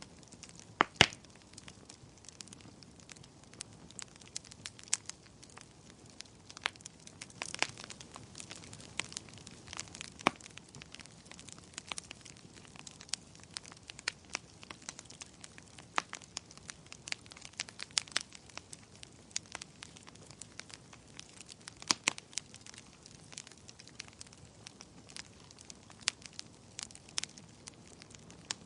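Wood fire crackling in a fireplace: irregular sharp pops and snaps over a soft hiss, the loudest snaps about a second in and again late on.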